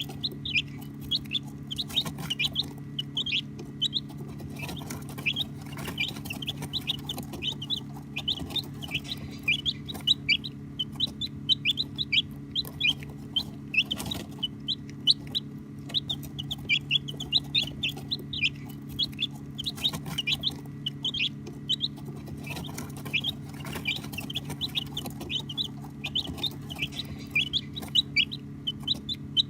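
A brood of baby chicks peeping: a dense, continuous stream of short high-pitched chirps, several overlapping each second, over a steady low hum.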